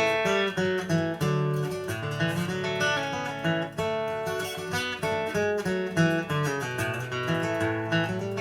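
Instrumental break of a bluegrass song: acoustic guitar and other plucked strings picking a quick run of notes, with no singing.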